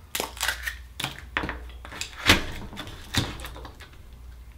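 A big saltwater oyster's shell being opened by hand: a run of irregular hard clicks and crunches, shell on shell and tool on shell, with one sharper crack a little past two seconds in.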